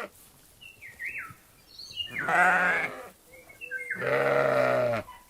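Sheep bleating: two long wavering bleats, one about two seconds in and another near the end.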